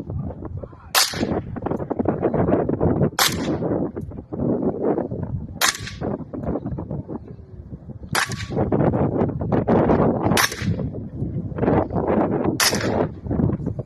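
Six shots from a suppressed 5.56 rifle, fired one at a time about two seconds apart; the suppressor brings the report down to something like a .22. Heavy wind buffets the microphone between the shots.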